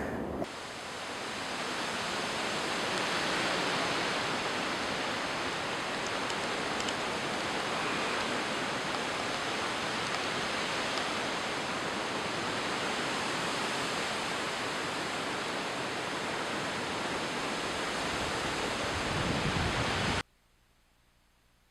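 A steady rush of flowing water that cuts off suddenly near the end.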